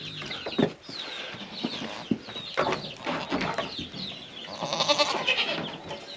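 Goats bleating, with one long quavering bleat about five seconds in, over chickens clucking and peeping and a few scattered knocks.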